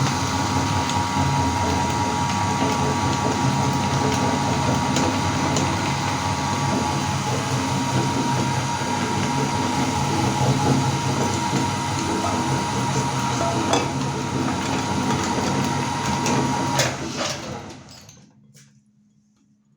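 Electric meat grinder running steadily as it grinds Oreo cookies, with scattered sharp clicks over its motor hum. About two seconds before the end it is switched off and runs down, leaving near silence.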